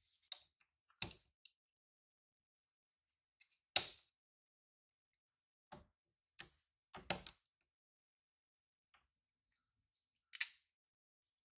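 A few separate sharp clicks and knocks, about seven of them with silence between; the loudest comes a little under four seconds in, and another strong one comes just past ten seconds.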